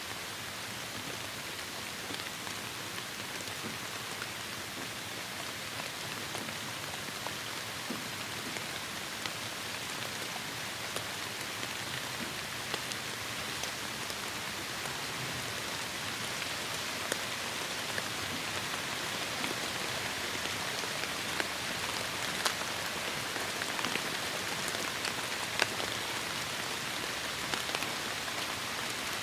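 Heavy rain falling as a steady hiss, with scattered sharp drop ticks that come more often near the end.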